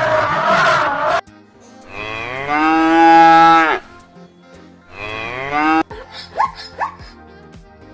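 Cattle mooing: a long drawn-out moo from about two seconds in that rises, holds and falls away, with shorter calls before and after it. A few brief, sharp, rising squeaks come near the end.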